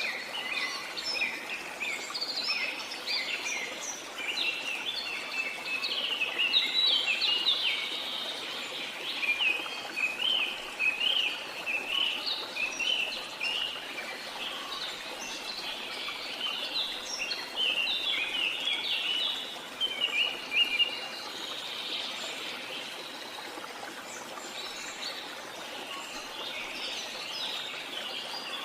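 Many birds chirping in a dense, overlapping chorus of short calls over a steady rush of water. The chorus is busiest through the middle and thins toward the end.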